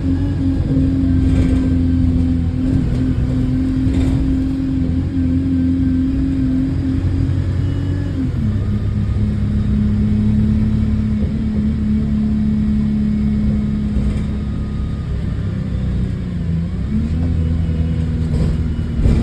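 Bus engine running while the bus is under way, heard from on board, with a steady drone that drops in pitch about eight seconds in and rises again near the end. The bus has an exhaust leak.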